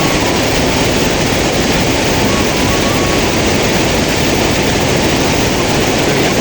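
Rushing stream water, a steady loud hiss with no breaks.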